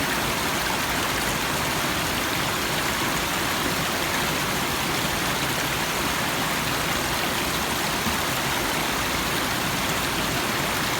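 Small stream running: a steady, even rush of flowing water.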